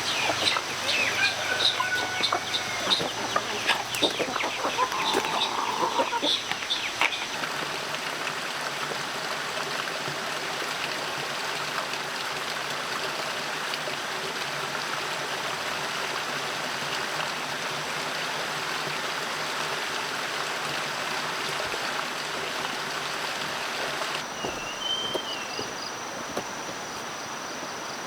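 Chickens clucking and birds calling, mostly in the first several seconds, over a steady background hiss.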